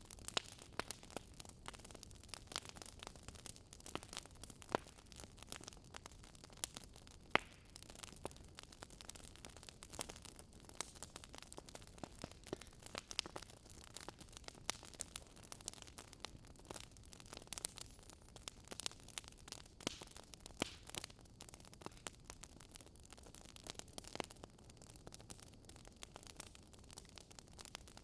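Wood fire crackling: irregular small pops and snaps, several a second, over a faint low hiss.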